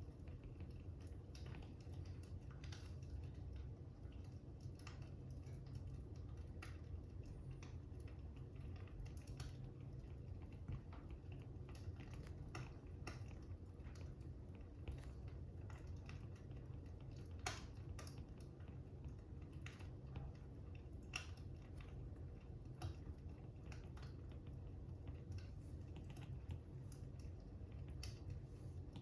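Fire crackling faintly, with irregular sharp pops over a steady low rumble; one pop a little past the middle stands out as the loudest.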